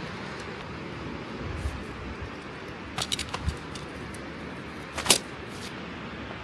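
Steady hiss of rain and sea, with a few sharp metallic clinks of camping gear being handled: a quick cluster about three seconds in and a louder single clink about five seconds in.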